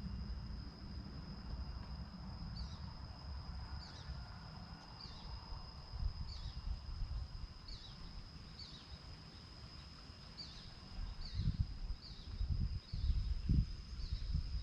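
Outdoor field recording: a steady high insect drone runs under a series of short, falling bird chirps repeated about once a second. Low rumbling noise sits underneath, and a few low thumps come near the end.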